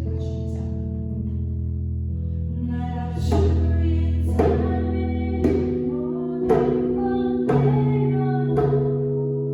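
Worship music on keyboard: sustained held chords, then from about three seconds in, chords struck about once a second.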